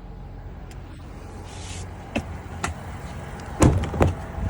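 A few light clicks, then two heavy clunks close together, as the pickup truck's interior fittings are handled, over a steady low rumble.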